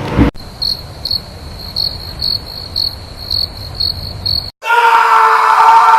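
Cricket-chirp sound effect: one high chirp about twice a second, the stock comedy cue for an awkward silence. It cuts off abruptly near the end, and a loud, steady held cry takes over.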